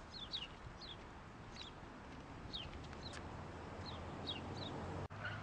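Small birds chirping: about a dozen short, quickly falling chirps, some in quick pairs, over a steady low background hum.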